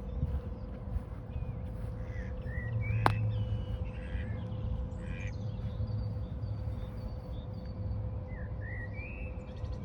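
Birds chirping in short, scattered calls over a steady low rumble, with a single sharp click about three seconds in.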